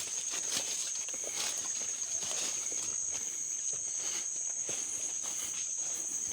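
Rainforest insects, cicadas or crickets, droning steadily on a high pitch, with scattered rustles and light crunches like footsteps through leaf litter.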